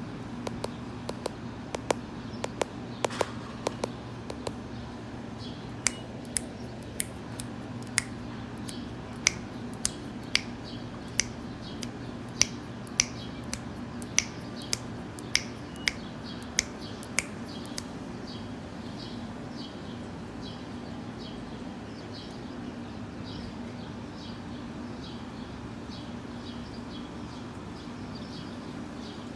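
Sharp, irregular clicks through the first half. Then faint, short, high chirps of swallows, about two a second, over a steady low hum.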